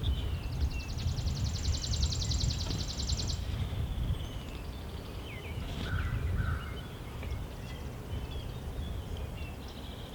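Songbirds chirping over a low wind rumble on the microphone, with a fast, high-pitched trill from about half a second in lasting roughly three seconds.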